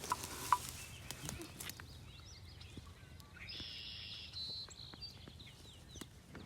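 Faint songbird chirps and trills in woodland, with a longer high song phrase past the middle, and a few small ticks and rustles.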